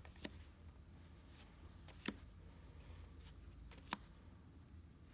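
Near silence: room tone with a steady low hum, broken three times by short, sharp clicks.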